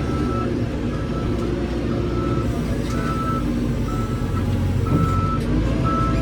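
A heavy vehicle's reversing alarm beeping steadily about once a second over the low, steady running of a diesel engine.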